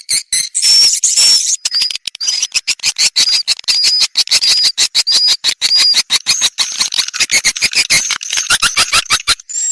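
Swiftlet calls from a swiftlet-house lure recording: a rapid run of dry clicks overlaid with short high chirps that repeat about twice a second, the pattern shifting near the end.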